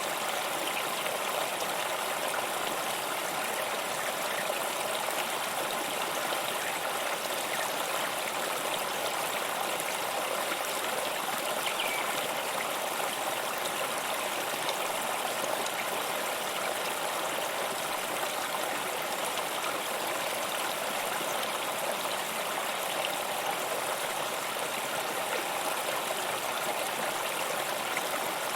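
Stream of water flowing and trickling steadily over stones, an even babbling rush with no breaks.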